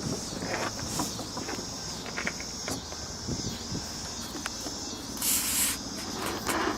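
A chorus of insects singing in a steady high drone that dips and swells about once a second, with scattered clicks and a short burst of hiss about five seconds in.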